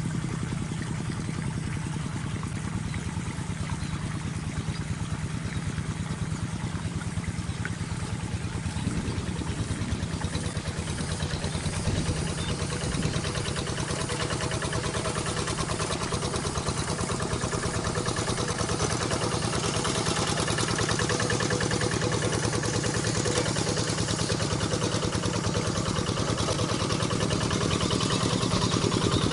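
Single-cylinder diesel engine of a hand rice-field tractor running steadily at idle with an even, fast chugging pulse, a little louder in the second half.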